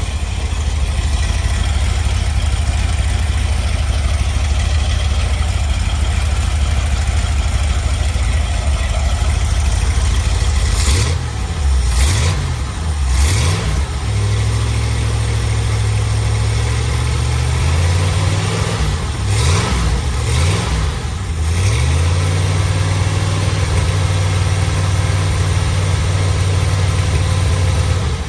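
Carbureted Rover 4.0 V8 idling steadily for about ten seconds. Then the throttle is blipped three times, quick rises and falls in engine speed, and it is held at a higher speed. After a few more blips it settles at a steady raised idle.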